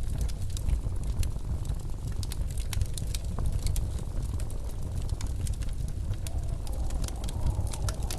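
Wood fire crackling with frequent small pops over the steady low rumble of blizzard wind.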